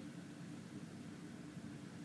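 Faint steady background noise with a low hum.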